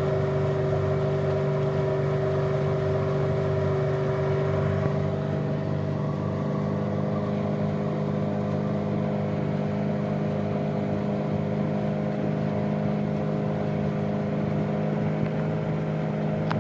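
Motorboat engine running steadily at an even speed, a constant low hum with a few higher tones that fade out about five seconds in.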